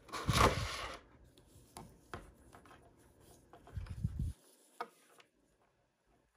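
Toy packaging handled by hands: a loud rustling rub in the first second, then a few light clicks and taps. There is a short low rumble about four seconds in, and it is nearly silent near the end.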